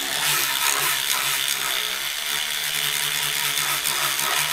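Electric cleaning brush running with a steady motor hum, its bristles scrubbing wet, soapy textured plastic of a typewriter's casing to work up a foam.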